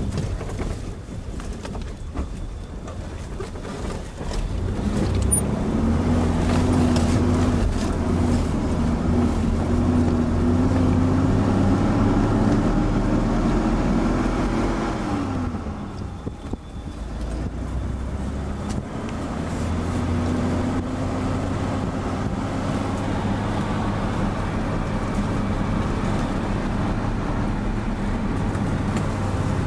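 Vehicle engine heard from inside the cabin while driving over desert sand. About five seconds in it gets louder and its pitch climbs slowly under load. Around halfway the pitch falls sharply and the sound dips briefly, then the engine runs steady again.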